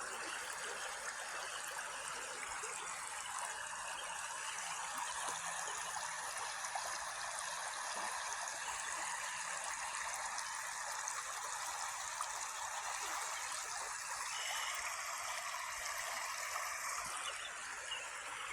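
Floodwater of the overflowing Rabbit River rushing past, a steady even hiss of flowing water.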